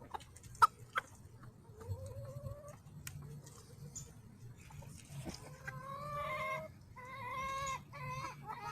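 Chicken making drawn-out, whining calls: a short rising one, then three longer calls in a row in the second half. A few sharp taps come near the start.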